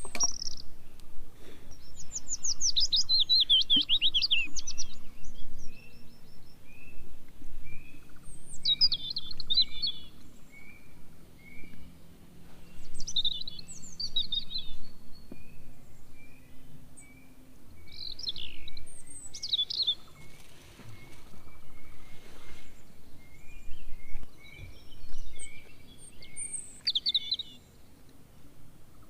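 Forest birds singing: loud, fast chirping and trilling phrases repeat every few seconds, over a steady, evenly spaced series of soft short notes from another caller.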